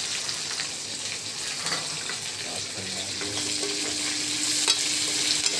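Sliced onions, green chillies and curry leaves sizzling in hot oil in a metal kadhai while being stirred, with scattered light clicks of the spatula against the pan.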